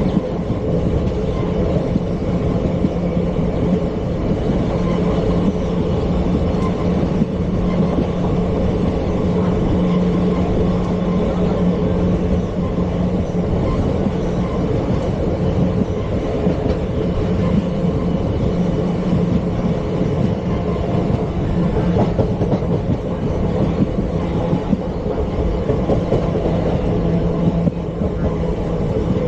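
ICF passenger coach running along the track: a steady rumble of wheels and bogies on rails, with a steady low hum under it and one brief knock partway through.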